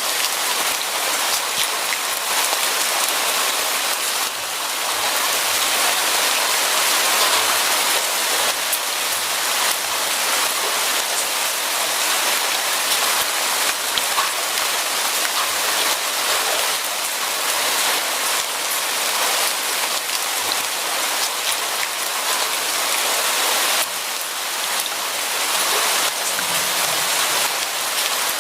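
Steady rain falling, an even hiss of drops hitting surfaces with fine patter throughout; it eases slightly twice, about four seconds in and again near the end.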